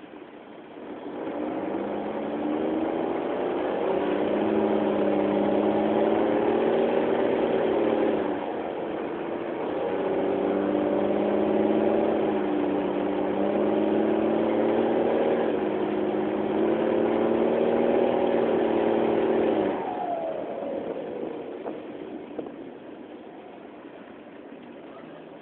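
Mercedes-Benz OH 1621 L bus's turbocharged diesel engine with an open, unmuffled exhaust working hard under acceleration. It has a short dip in revs about eight seconds in, then pulls again, and near the end it eases off with the pitch falling back towards idle.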